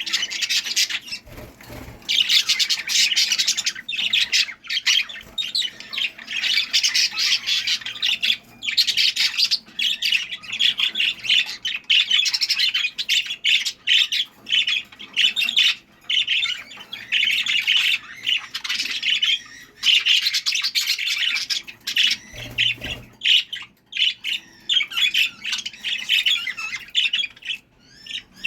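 Budgerigars chattering: fast, continuous chirps and squawks in bursts of a second or few, with short pauses between.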